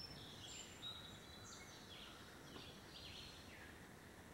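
Faint songbird calls: a scattered run of short chirping notes over quiet woodland background hiss.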